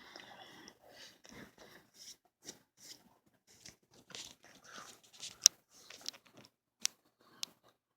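A person biting into and chewing a microwaved cheeseburger, close up: irregular soft mouth and chewing noises, with a few sharp clicks in the second half.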